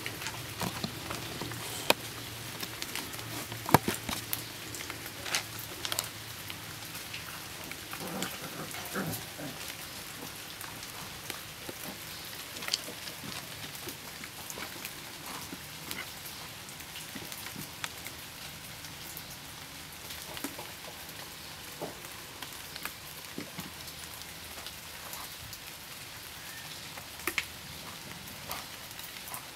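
Rain falling steadily on leaves and ground, with many single drops dripping sharply close by.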